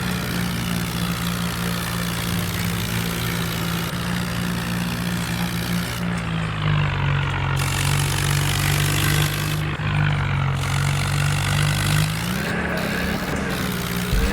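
Swaraj 4x4 tractor's diesel engine running steadily. Its note drops a little about six and a half seconds in and rises again about twelve seconds in.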